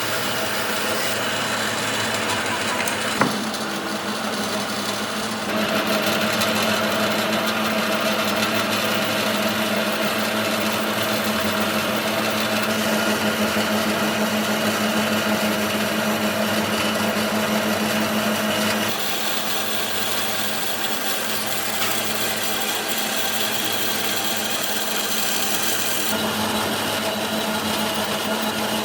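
Electric woodworking power tool running steadily, its pitch and loudness shifting a few times as it works, with one sharp knock about three seconds in.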